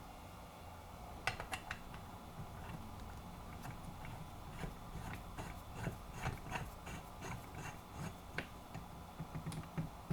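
Metal parts of a hand-cranked meat chopper being handled and fitted together: scattered light clicks, small knocks and metal rubbing, with sharper clacks about a second in and near the end.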